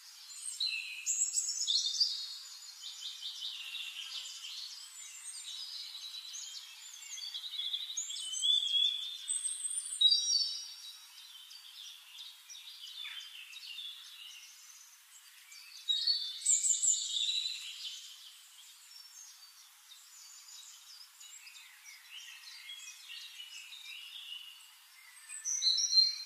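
Birds chirping and singing, many short calls and trills overlapping, in louder spells with quieter stretches between.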